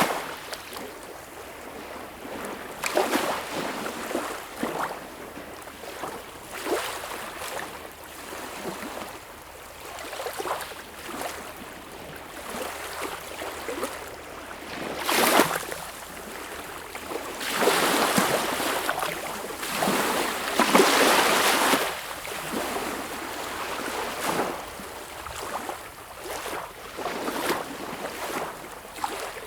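Sea waves washing and splashing in an irregular rhythm, with louder surges about halfway through and again a few seconds later.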